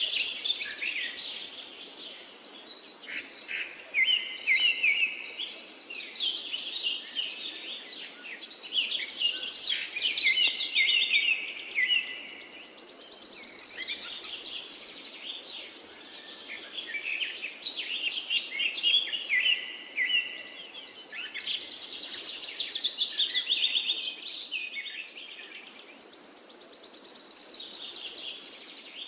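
Several songbirds singing and chirping in quick overlapping phrases, with a high buzzy trill that recurs every few seconds.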